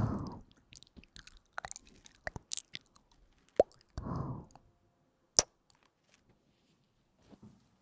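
Close-miked ASMR trigger sounds: scattered sharp clicks and crackles, with two short soft bursts, one at the start and one about four seconds in.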